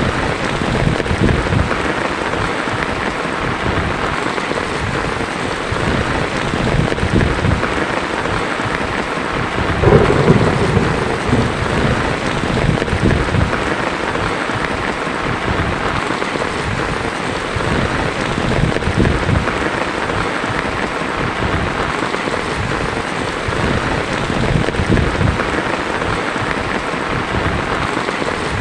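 Heavy rain falling steadily on a tin roof, with a loud clap of thunder about ten seconds in and low thunder rumbles coming and going.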